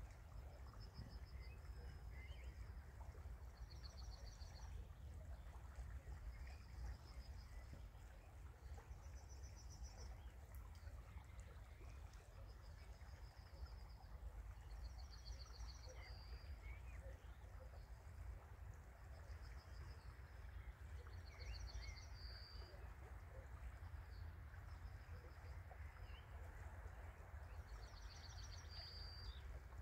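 Faint outdoor ambience: a bird repeats short, high, rapid trills every two to three seconds over a steady low rumble and the soft hiss of a small stream.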